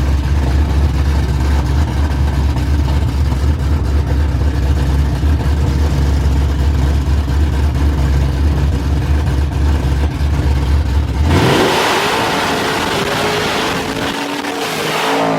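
Very loud truck engine holding a steady low rumble, then revving up sharply about eleven seconds in with a rising pitch and a harsh rushing noise, as in a burnout.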